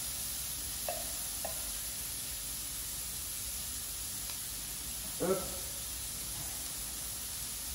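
Diced red pepper, onion and garlic sizzling steadily in hot olive oil in a wide frying pan as they start to sauté.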